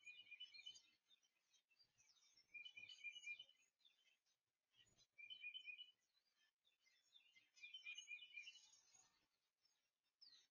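A songbird singing faintly: four short phrases of quick repeated notes, a couple of seconds apart.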